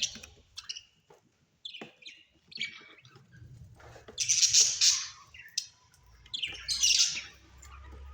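Parrot calls: a few short chirps, then two long harsh squawks, the first about four seconds in and the second about seven seconds in.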